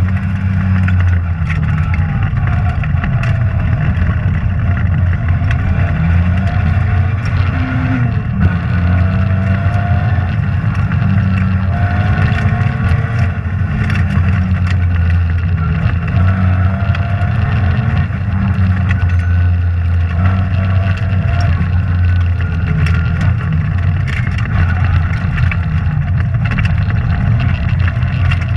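Rally car engine working hard at speed, its revs rising and falling with the driving, with scattered sharp clicks and knocks over it.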